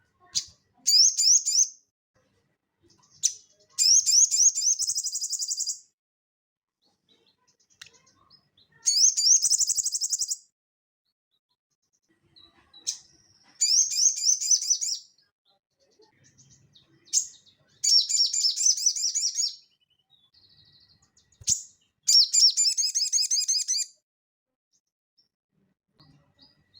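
A sogon songbird singing: six bursts of fast, high, chattering trills, each about one and a half to two seconds long, with short sharp chips between them. This is the vigorous 'gacor' song used to prompt other songbirds into singing.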